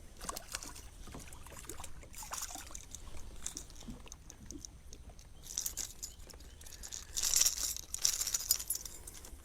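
Light clicks and rattles of handling on a kayak, with splashy bursts of water, the loudest about seven to eight and a half seconds in.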